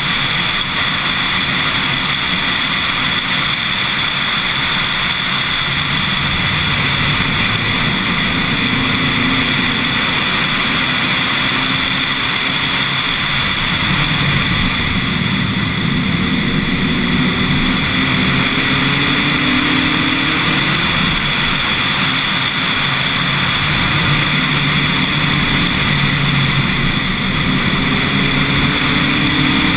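Lotus Elise S1 111S's 1.8-litre Rover K-series VVC engine under load on a climb, its note repeatedly rising and dropping back at each gear change, under a steady rush of wind and road noise.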